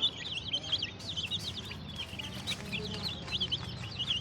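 A group of baby Aseel chicks peeping constantly, many short high-pitched peeps overlapping several times a second.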